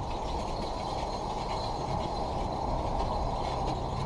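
Alpine coaster sled rolling along its stainless steel tube track: a steady, low rolling noise.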